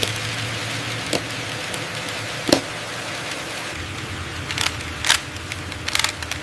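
Steady hiss with a faint low hum, broken by a handful of short, sharp clicks and taps; the loudest comes about two and a half seconds in, and several more come close together near the end.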